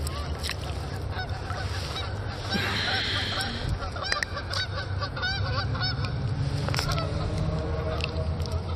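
Birds calling in short, repeated chirps over a steady low background rumble.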